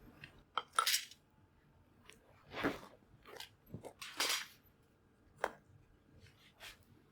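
Wood campfire crackling and popping, with irregular sharp snaps, the loudest a little under a second in, near the middle, and about four seconds in.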